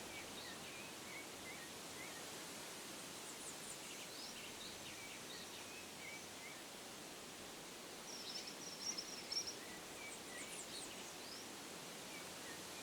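Faint birdsong: scattered short chirps and a brief trill about eight seconds in, over a steady soft hiss of outdoor ambience.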